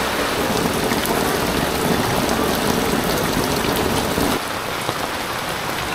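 Heavy rain pouring onto a flooded street and its standing floodwater, a steady hiss. About four seconds in it drops slightly in level and loses some of its fuller low rush.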